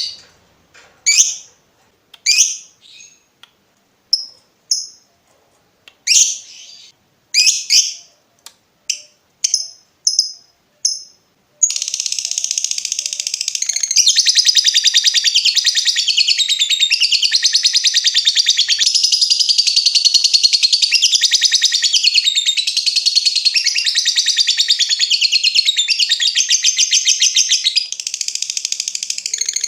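Lovebird calling: about a dozen short, sharp separate chip notes (ngetik), then, about twelve seconds in, a long unbroken rapid high chatter (ngekek panjang) that carries on.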